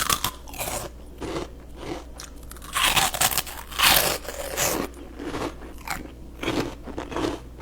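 Close-miked crunching and chewing of crispy cinnamon twists, irregular bites with the loudest crunches about three and four seconds in.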